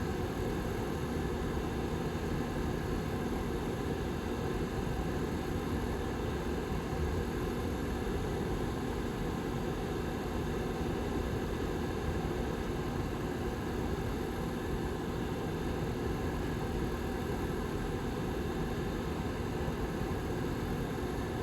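Lasko Model 755320 tower heater's rear fan running steadily: an even rush of air with a couple of faint, steady low hum tones in it.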